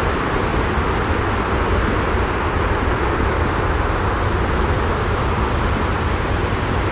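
Steady, unchanging white-noise-like rumble with a strong deep low end, a continuous sleep-noise track with no separate events.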